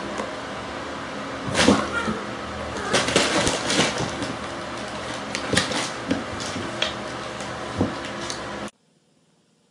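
Two cats play-fighting on a wooden floor: scuffling with several sharp thumps and knocks, the loudest about one and a half seconds in, over a steady hiss. It cuts off suddenly near the end.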